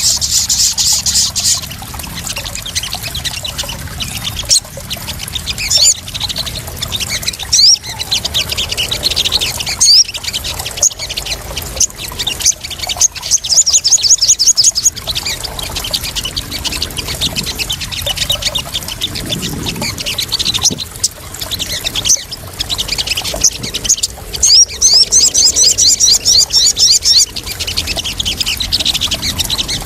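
Sogon (crimson sunbird) calls: rapid, high chattering trills that come in several bursts, the strongest about halfway through and again near the end. Under them runs a steady sound of splashing, trickling water.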